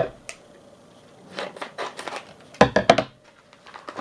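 Mail packaging being handled and opened: paper and plastic rustling with a few sharp clicks, and a louder cluster of handling noise about two and a half seconds in.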